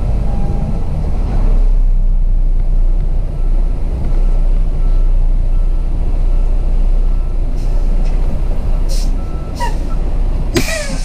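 Semi-truck's diesel engine running steadily under way, a low rumble heard from the cab. Near the end come a few short hisses and squeaks.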